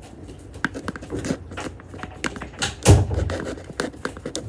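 Spoon stirring a sticky white-glue slime mixture in a small bowl: irregular clicks and scrapes, with one louder knock about three seconds in.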